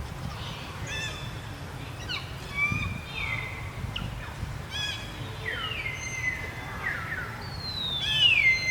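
High-pitched animal calls, some short and clipped and some sliding down in pitch and then held, the longest and loudest near the end, over a low outdoor rumble.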